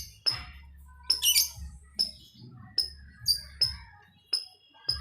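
Lovebirds calling back and forth: short, sharp, high chirps repeating about every half second, with one louder, harsher screech a little over a second in.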